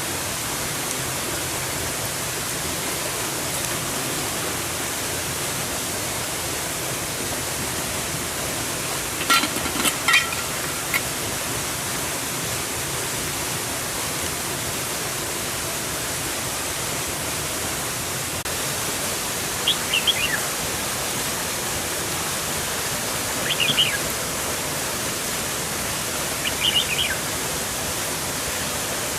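Steady rushing noise of running water or rain in the rainforest, even throughout. A bird calls with short chirps in a cluster about a third of the way in, then three more times near the end.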